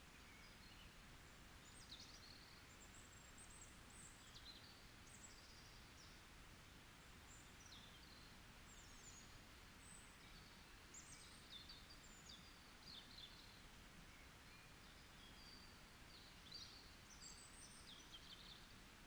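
Forest birds singing faintly: many short, high chirps and calls scattered all through, over a low steady background hiss.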